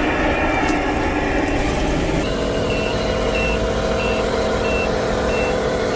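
A steady engine drone, then, after an abrupt change about two seconds in, a truck's reversing beeper sounding about one and a half times a second over a steady motor hum.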